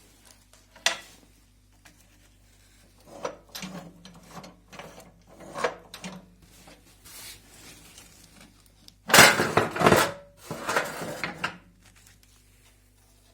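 Handling noises from a cast-iron enamelled stove: scattered knocks, clinks and scraping of metal parts, with a louder spell of clattering and rubbing about nine seconds in that lasts roughly two seconds.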